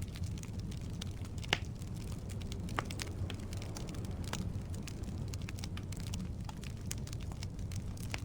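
Firewood burning in a fireplace: a steady low rumble of flame with frequent small crackles and a sharper pop about one and a half seconds in.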